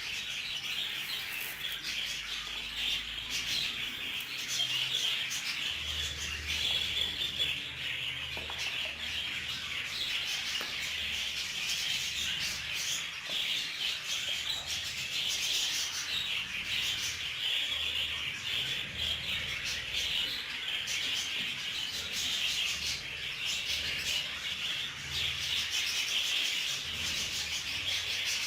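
Budgerigars chattering and chirping steadily, a dense, continuous warble of fast chirps.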